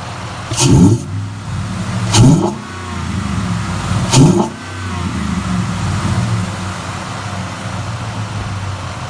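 The 5.0-litre V8 of a 2014 Ford F-150, breathing through a Roush cold air intake, idling and blipped three times. Each rev rises and falls within about half a second, with a rush of intake air, and the engine settles back to idle in between.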